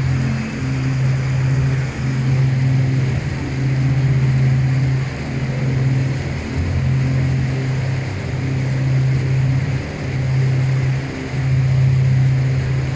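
Boat under way: a low, steady engine drone with water rushing alongside, and music playing over it.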